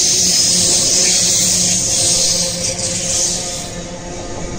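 Train at the station platform: a steady mechanical whine over a loud hiss, easing off about three seconds in.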